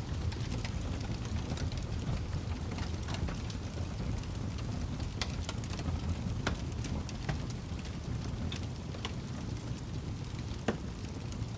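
Wood fire crackling in a fireplace: irregular sharp pops and snaps over a low steady rumble of the flames, with two louder pops about six and a half and ten and a half seconds in.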